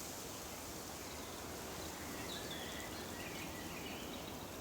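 Quiet outdoor ambience: a steady hiss with faint bird chirps coming in a little after two seconds.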